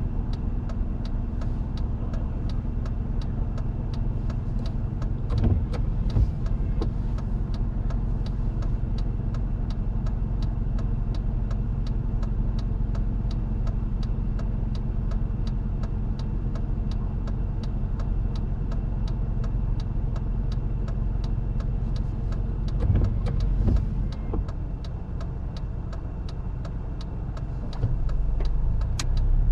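Car engine idling steadily while stopped in traffic, a low rumble with a regular light ticking over it, about two ticks a second. It grows louder near the end.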